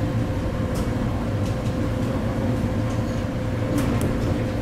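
Inside the passenger car of an ET127 series electric train rolling slowly: a steady low rumble with a steady hum and a few faint clicks.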